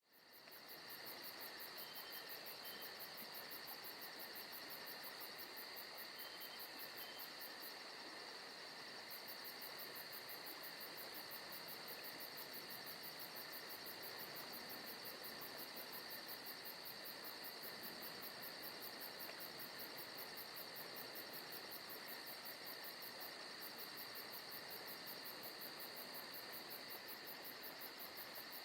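A faint, steady insect chorus, crickets trilling, with high continuous bands of chirping and a fast pulsing at the top, fading in at the start.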